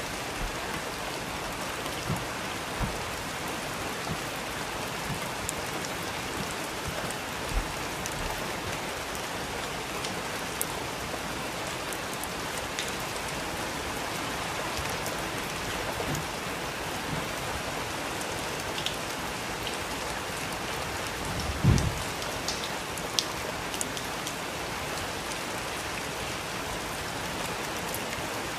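Steady rain falling, with scattered louder drops. A single low thump stands out about three-quarters of the way through.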